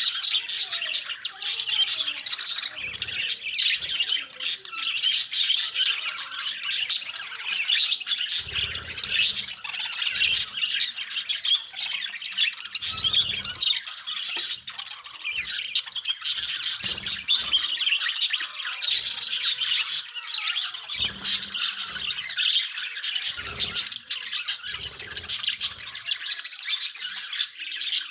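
Budgerigars chattering and squawking together in a dense, continuous flock chorus of rapid high calls. Short low thumps come through now and then.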